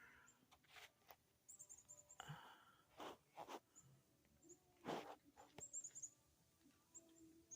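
Near silence with faint, very high small-bird chirps in two quick runs of short notes, about a second and a half in and again near six seconds, among a few soft clicks and a brief rustle.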